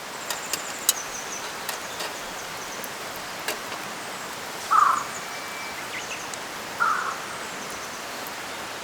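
Steady rushing of a river with scattered sharp crackles, like a campfire's burning wood. Near the middle come two short, louder sounds about two seconds apart.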